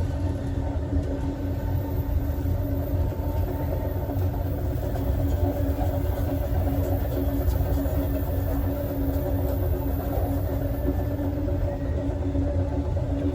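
Steady low rumble of an Amtrak passenger train car riding on the rails at speed, with a constant hum over it.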